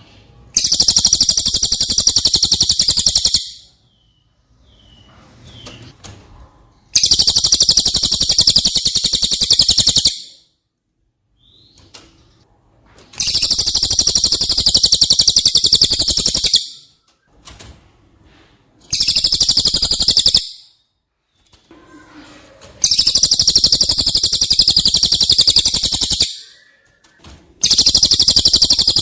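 Cililin bird song: six bursts of a very rapid, high trill, each lasting two to three and a half seconds, with short pauses between them.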